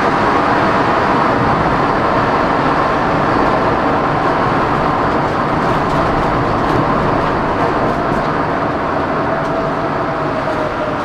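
Coach bus running at speed, a loud steady rush of engine and road noise, with a faint whine that slowly drops in pitch near the end.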